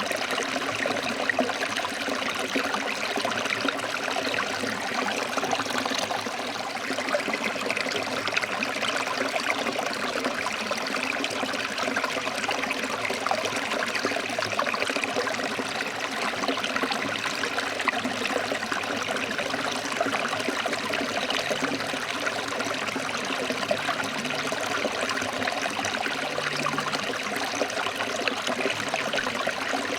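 Forest stream flowing over rocks: a steady, even rush and babble of water.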